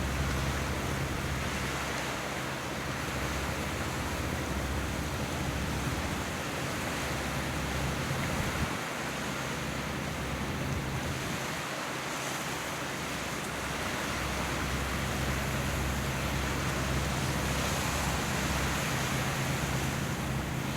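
Sea ambience: water and wind noise, with wind on the microphone and a low steady drone underneath that fades for a few seconds midway.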